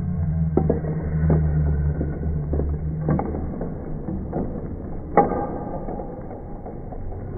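Museum earthquake simulator running with a low, steady rumble and scattered knocks and rattles. The rumble dies away about three seconds in, and a sharper knock comes about five seconds in.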